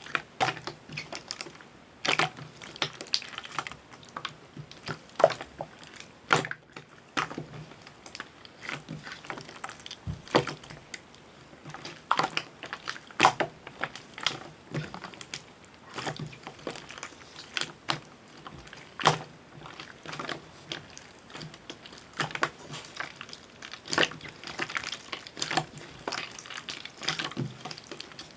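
Hands kneading, poking and stretching slime: irregular wet squishes with sticky clicks and small air pops, several a second and uneven in strength.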